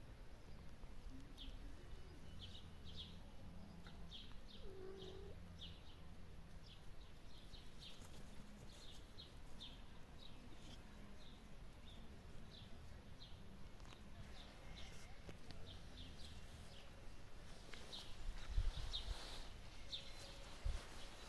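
Small birds chirping: short high chirps, several a second, over a low steady rumble. A few dull low thumps come near the end.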